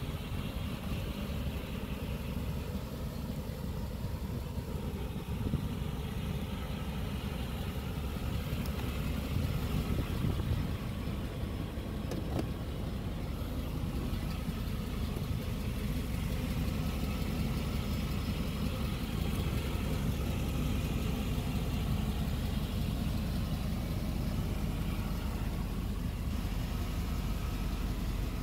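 1992 Cadillac Brougham's V8 engine idling steadily, a low, even rumble.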